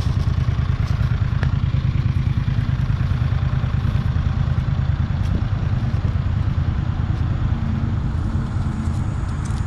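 Mower engine running steadily, with a fast low pulsing throughout.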